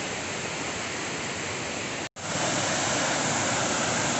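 Steady rush of a waterfall's falling water, an even hiss with nothing else standing out. It cuts out for an instant about halfway through and comes back slightly louder.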